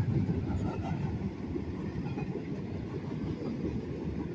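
Intermodal freight train rolling past, its cars' wheels on the rail making a steady rumble.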